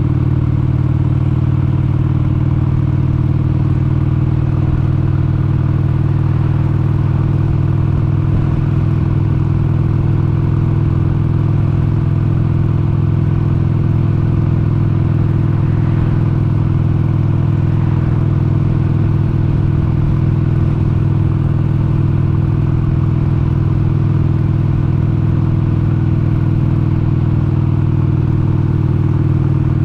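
1996 Harley-Davidson XLH883 Sportster's air-cooled 883 cc Evolution V-twin engine running at a steady cruising speed, its note unchanging throughout.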